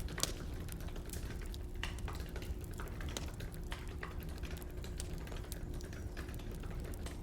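Firewood crackling with scattered irregular pops and snaps over a low steady rumble, with keyboard typing clicks mixed in.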